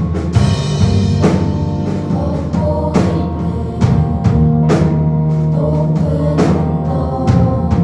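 Live contemporary worship band music: a drum kit striking over sustained chords and bass.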